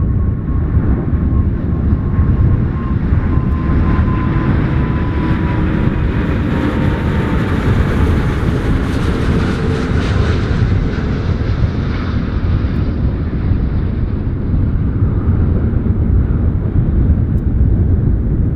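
Jet airliner passing overhead on landing approach: an engine rush that swells to its loudest around the middle and then fades, with a thin whine that slides slowly down in pitch, over a steady low rumble.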